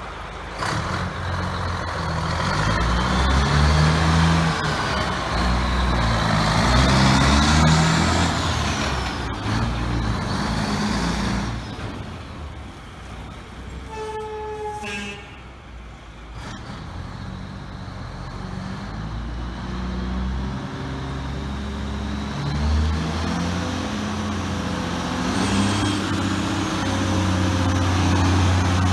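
1976 Mack DM868 roll-off truck's diesel engine running and revving up and down, with a brief pitched tone about halfway through.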